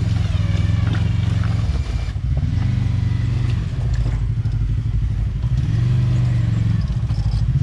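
Off-road vehicle engine running and revving up and down in spurts, as a high-centred side-by-side is worked free of the obstacle it is bellied out on.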